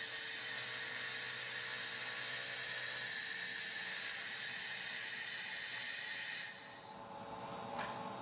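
Handheld laser cleaning head of a 5-in-1 laser welding machine firing in cleaning mode with air fed at 0.5 MPa: a steady hiss with several faint steady whines. About six and a half seconds in the hiss drops away, leaving a thin high whine, and the sound cuts off abruptly at the very end.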